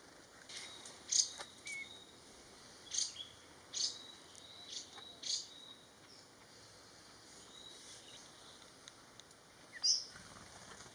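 Wild birds giving short, sharp chirps and calls, about half a dozen spread out, the loudest about a second in and near the end, over faint forest background noise.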